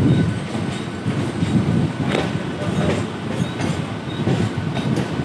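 Electric local train (EMU) running on the rails: a continuous low wheel rumble with uneven clickety-clack and a few sharp clicks, over a faint steady high whine.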